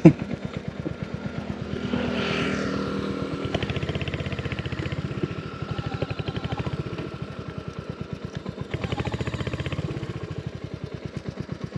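Royal Enfield Hunter 350's single-cylinder engine running under way, its exhaust a steady, even pulse that swells a little louder about two seconds in and again near the end.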